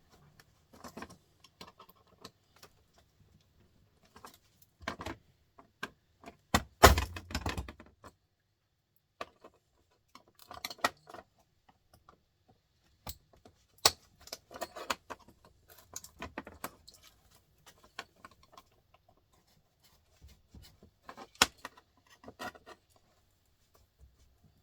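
Irregular metallic clinks and clatter of hand tools and small metal parts as a small printer motor is pulled apart, with a sharper knock about seven seconds in.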